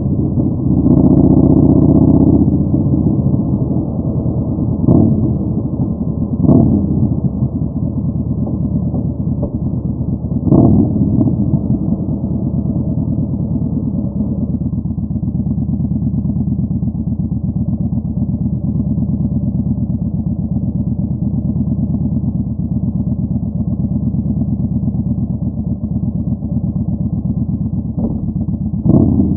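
Yamaha Bolt 950's V-twin engine through a Vance & Hines Twin Slash Staggered exhaust, running at low revs. Its note swells briefly several times, at the start, around five, six and ten seconds in, and again near the end, then settles into a steady stretch in between.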